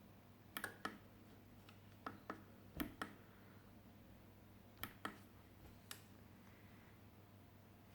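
Near silence with about ten faint, sharp clicks and taps scattered irregularly over a faint steady low hum. The loudest click comes a little under three seconds in.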